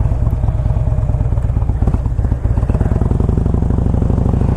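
2007 Harley-Davidson FLHT's 96 cubic inch Twin Cam V-twin running at low revs, a steady rapid train of exhaust pulses.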